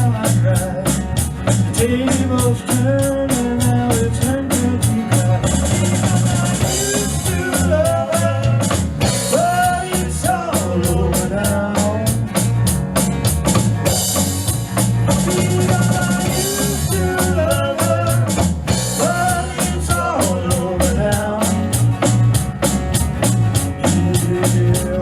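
Acoustic trio playing an instrumental passage: a drum kit keeps a steady beat with rimshots under a bending melodic line.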